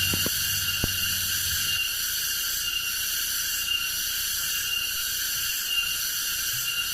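Steady high-pitched chorus of forest insects, with one thin tone swelling and fading every second or so. A few sharp clicks in the first second.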